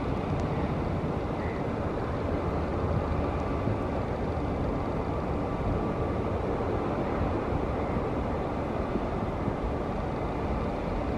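Steady low rumble and rushing noise of an approaching train hauled by a WAP-7 electric locomotive, even in level throughout.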